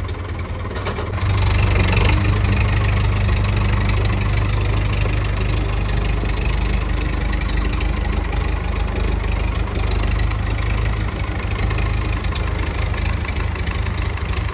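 Massey Ferguson 165 tractor engine running steadily. It grows louder about a second in and holds there.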